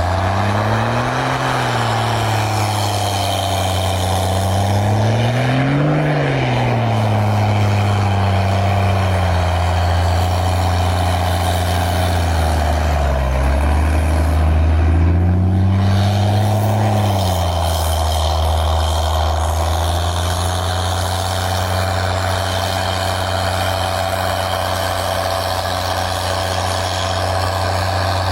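A 4x4 pickup truck's engine running steadily, its revs rising and falling: it picks up about a second in, again around six seconds, dips near the middle, and rises once more a few seconds later before settling to a steady run.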